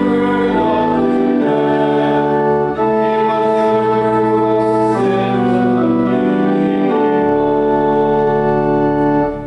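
Church organ playing held chords that change every second or two, stopping just before the end.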